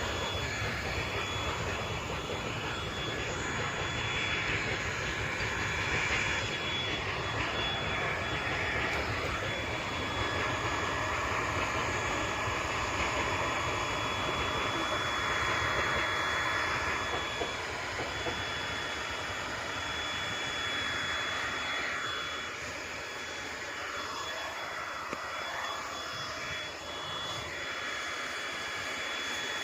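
Hot-air plastic welding gun running steadily, a continuous blowing hiss with a thin high whine, a little quieter in the second half.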